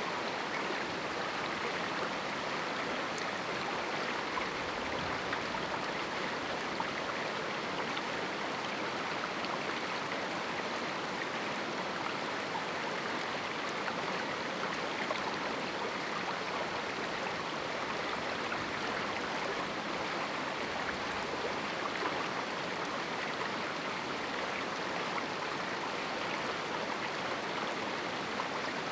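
A shallow river running over rocks in a small canyon: a steady, even rush of flowing water.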